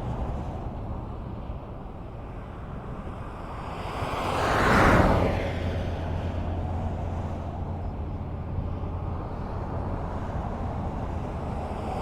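Highway traffic: a steady low rumble of distant vehicles, with one car passing close by, swelling and fading about five seconds in, and another approaching near the end.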